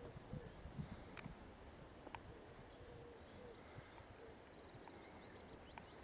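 Faint footsteps on a sandy trail, with soft thuds in the first second, and small birds chirping faintly in the background.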